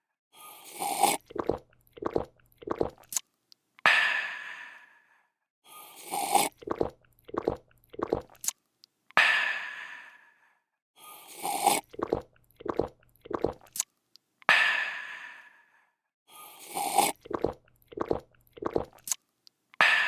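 A person drinking, looped: a slurping sip, three or four quick gulps, then a long breathy 'aah' of refreshment that fades out. The same cycle repeats about every five seconds, four times.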